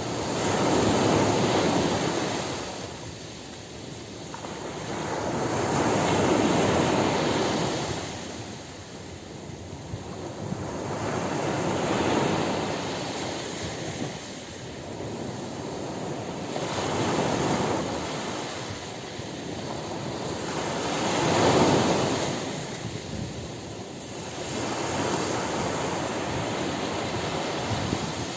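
Ocean surf breaking on a beach: waves wash in and draw back in slow swells, about one every four to five seconds.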